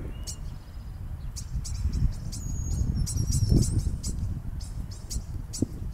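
Small birds chirping, with short high calls throughout and a few thin whistled notes in the middle, over a low rumble of wind on the microphone.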